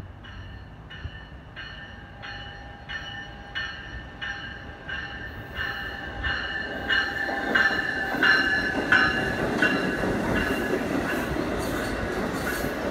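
NJ Transit multilevel commuter train, pushed by an ALP-46A electric locomotive, approaching and passing with its bell ringing about once every half second and getting louder. From about seven seconds in, the rumble of wheels on rail builds as the cars go by.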